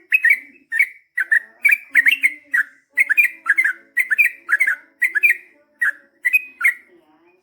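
Yellow-vented bulbul (trucukan) singing a long rapid run of loud, bubbly notes, about three a second, which breaks off near the end.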